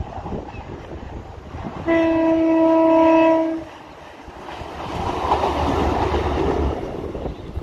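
Diesel multiple-unit passenger train sounding its horn once, a single steady note held for nearly two seconds. It then passes underneath with engine rumble and wheel noise that swells and fades.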